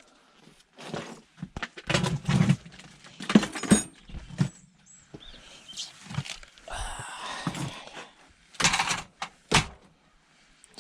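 Irregular knocks, clinks and scraping of metal parts and hand tools being handled while an electrical item is stripped for scrap.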